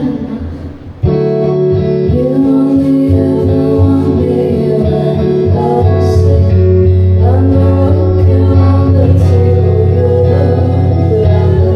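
Live band playing loudly. The sound dips, then the full band comes back in about a second in, with long held guitar tones over a steady bass.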